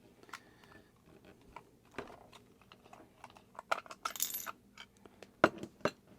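Scattered sharp clicks and light metallic clinks of a die-cast toy delivery truck being taken apart by hand, its small metal and plastic parts knocking together. There is a short scraping rustle about four seconds in.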